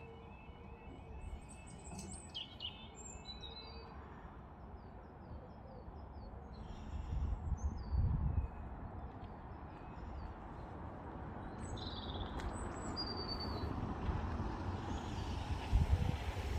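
Songbirds chirping and singing, including a quick run of falling notes, over a low outdoor rumble with a few gusty thumps. A broad hiss, like an approaching road vehicle, swells over the second half.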